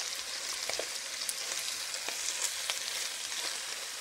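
Pork belly pieces with onion and mushrooms sizzling as they fry in a pan and are stirred with a spatula: a steady hiss with scattered small pops.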